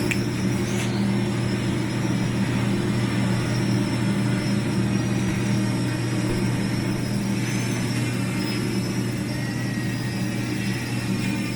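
Parrot Anafi Thermal quadcopter flying close by: a steady propeller hum with a thin, wavering high motor whine above it.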